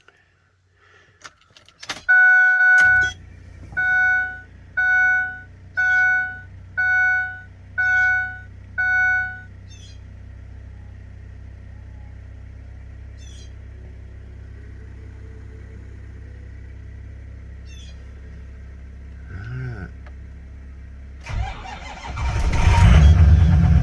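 Cold start of a Ford F-250's 6.0 Powerstroke V8 diesel at 14 degrees: with the key on, the dash chime dings seven times about once a second over a steady low hum, then near the end the engine cranks briefly and fires right up, running loud and steady.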